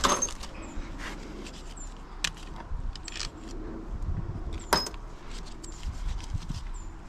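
Light metallic clicks and clinks of engine parts and tools being handled while a motorcycle engine is stripped down, with one sharper metal click near the end.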